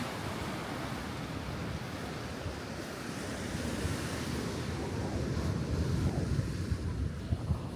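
Sea surf washing on the shore with wind buffeting the microphone, a steady rushing noise with a gusty low rumble that swells a little toward the end.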